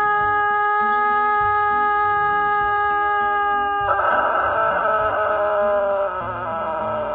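Background music with a long held note over a bass line. About four seconds in, a rooster crows once for about two seconds over the music.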